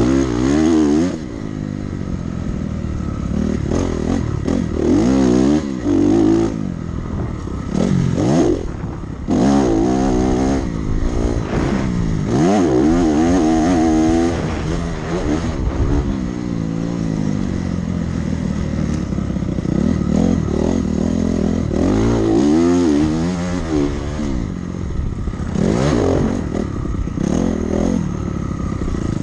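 Dirt bike engine ridden hard around a motocross track. It repeatedly climbs in pitch as it accelerates through the gears, then drops off and picks up again.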